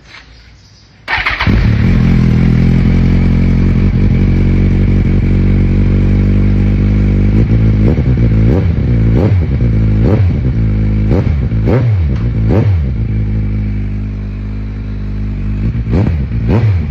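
Big-bike motorcycle engine starting up about a second in and settling into a steady idle, then blipped by the throttle in a quick run of about seven revs midway and twice more near the end. It is loud throughout.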